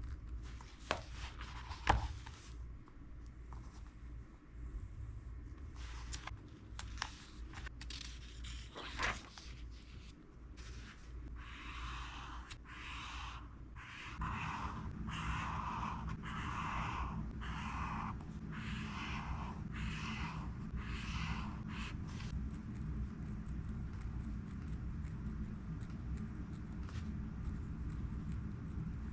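Pen and highlighter on book pages: a few sharp clicks and taps, then a regular run of about a dozen scratchy strokes on paper, a little over one a second, which stops around the three-quarter mark. A low steady hum comes up about halfway through and stays.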